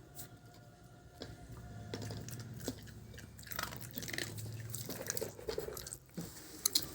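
A dog chewing and eating its food, with scattered short crunches and mouth clicks.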